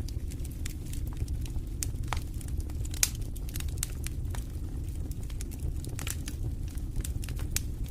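Fireplace fire burning: a steady low rumble of flames with frequent sharp crackles and pops, one louder pop about three seconds in.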